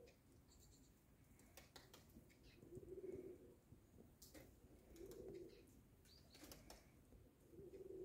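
A low cooing call repeated about every two and a half seconds, with faint high chirps and ticks from European greenfinches feeding on seed.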